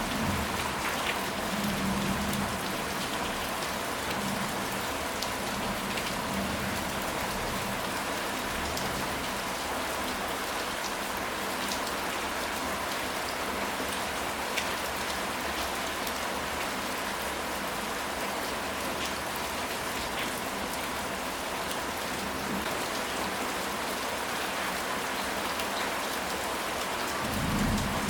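Steady rain falling, with scattered sharper drop ticks on top. A short low rumble comes near the start and again near the end.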